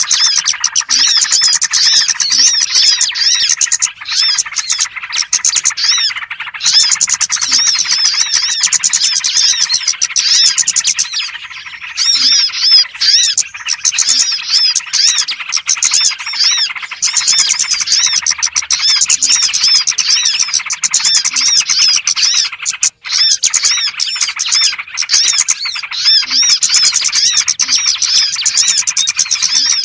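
Small songbirds twittering and chirping densely and continuously, a bird-lure recording made to draw in small birds: many high, quick chirps overlapping, with a short lull about eleven seconds in.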